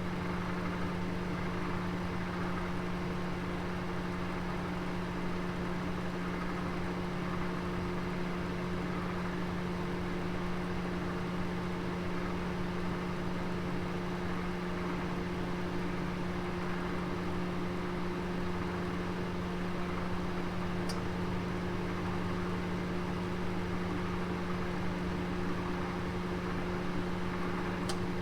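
Oven running with a roast inside: a steady hum with a constant low tone. Two faint ticks come in the later part.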